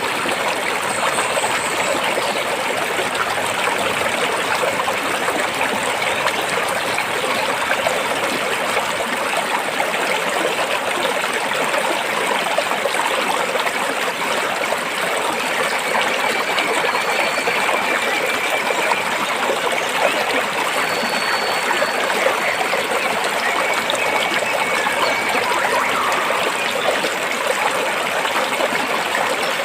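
Stream water flowing between rocks, a steady, even rush.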